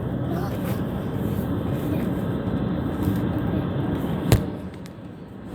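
Steady low rumble of a car, heard from inside the vehicle. A single sharp click comes about four seconds in, after which the rumble drops quieter.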